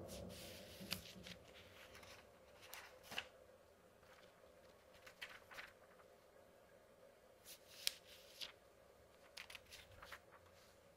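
Paper pages being turned by hand: a short crisp rustle about every two seconds. A low rumble of distant thunder fades out in the first second.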